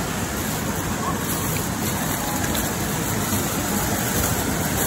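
Heavy rain pouring steadily, with a plastic bag rustling up close.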